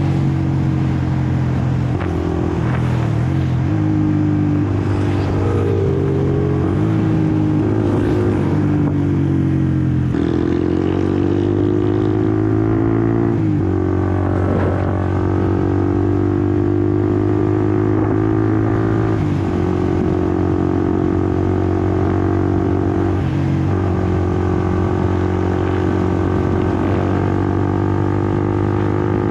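Honda CBR150R's single-cylinder engine running on the move. Its pitch drops and then climbs about ten seconds in as it pulls through the revs, then holds fairly steady with small dips.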